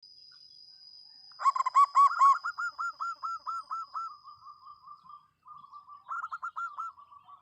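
Zebra dove (perkutut) cooing: a fast run of short, arched coos, loud at first and tailing off, then a second shorter run near the end. A faint steady high whine sits under the first few seconds.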